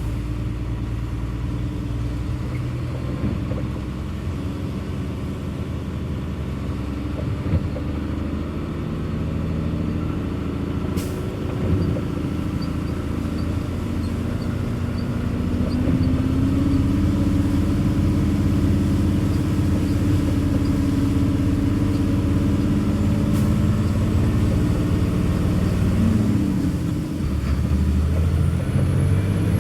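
Car engine running with road rumble, heard from inside the cabin while driving. The engine note steps up about halfway through and stays louder, dips briefly near the end, then picks up again.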